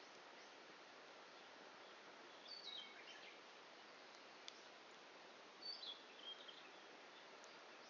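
A small bird calling twice in short chirping phrases over a faint steady hiss, with a couple of single small pops from a wood fire burning down to embers.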